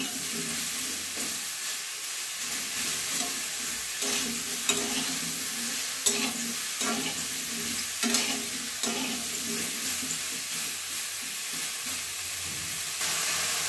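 Sliced button mushrooms sizzling in hot oil in a metal kadai, stirred with a flat metal spatula that scrapes and knocks against the pan every second or two over a steady hiss.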